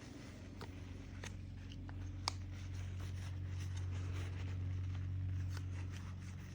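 Faint clicks and light scratching from hands handling small parts, one sharper click about two seconds in, over a steady low hum.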